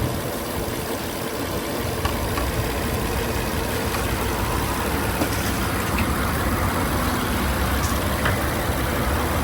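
Nissan Altima's engine running steadily at idle, a low even rumble.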